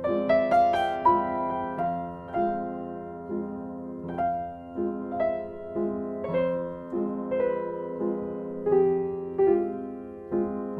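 Soft background piano music, a slow melody of single struck notes over held lower notes, with a quick run of notes in the first second.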